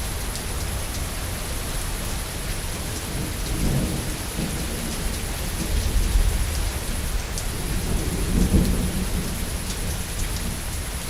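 Steady heavy rain pattering on surfaces, with low rolling thunder that swells up several times, strongest about 6 and 8½ seconds in.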